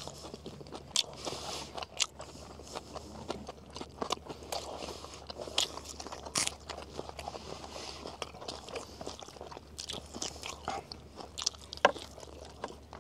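People chewing and biting into shorlog, Mongolian grilled meat skewers, close to the microphone. The bites and chewing come irregularly, with sharp clicks scattered throughout.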